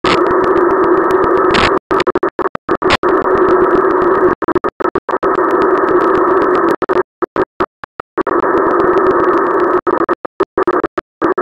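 TV static: a harsh, mid-pitched hiss that cuts out to silence again and again in a glitchy stutter, with the longest gaps around the middle.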